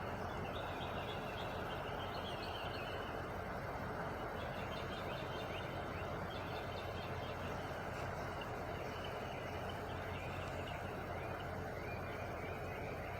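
Truck engine idling steadily, a constant low hum, while birds chirp over it throughout.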